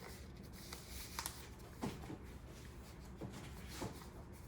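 Faint rustling and a few soft clicks of a glove being pulled on over a hand, over a low steady room hum.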